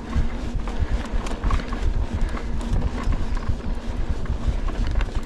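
Hardtail mountain bike riding over rough trail: wind rumble on the microphone with tyre noise and quick, irregular rattles and knocks as the bike chatters over bumps.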